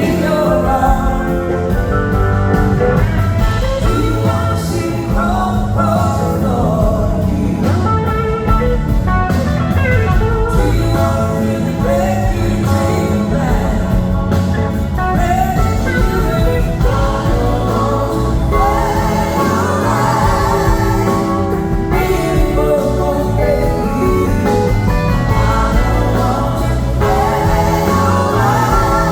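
Rock band playing a slow blues-rock song live, with electric guitar, bass, drums and singing.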